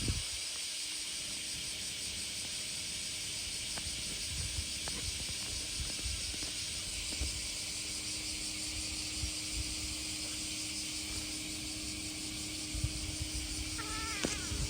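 Summer outdoor ambience: a steady high hiss, with occasional low wind bumps on the microphone and a short chirping call near the end.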